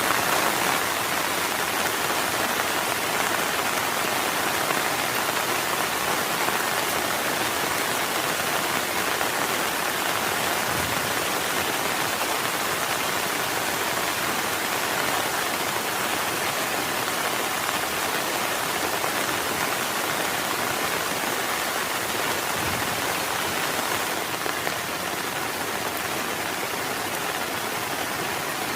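Heavy rain falling steadily, a dense, even hiss of drops on the tent and surroundings, easing slightly near the end.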